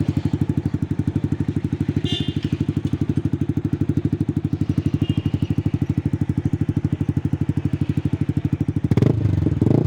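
Yamaha R15 V3's single-cylinder engine idling through an aftermarket exhaust, a steady rapid pulse. About nine seconds in the throttle is blipped and the exhaust note gets louder.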